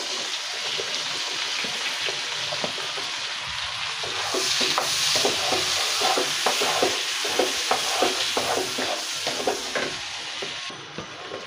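Carrot sticks sizzling in melted butter and garlic in a non-stick wok, stirred with a wooden spatula that scrapes and taps against the pan. The sizzle quietens near the end.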